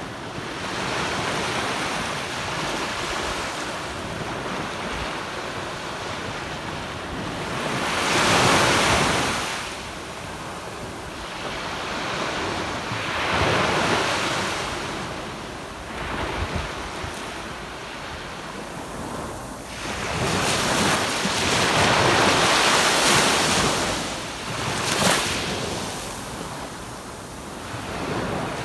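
Sea waves breaking and washing up on a sandy beach, the surf swelling and falling away every few seconds, the longest and loudest surge near the end. Wind buffets the microphone.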